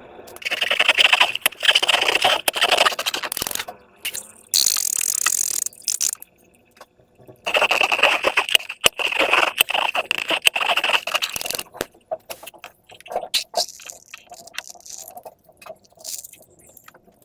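Slime and rubber balloons being handled: two long bursts of scraping, squishing noise with a shorter high hiss between them, then scattered soft clicks and taps.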